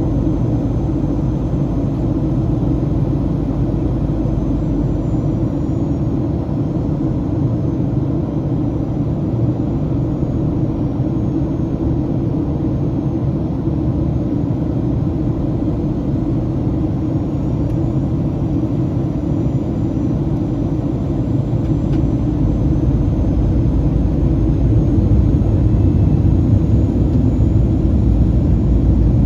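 Steady cabin rumble of airflow and CFM56-7B engines inside a Boeing 737-800 in flight, growing somewhat louder and deeper about three-quarters of the way through.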